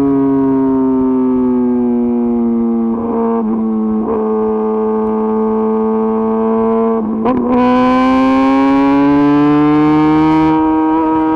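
Kawasaki ZX-10RR's inline-four engine through an Arrow Pro-Race exhaust under way. The engine note eases down in pitch and holds steady, breaks briefly twice (once about three seconds in, once past halfway), then climbs steadily as the bike pulls harder.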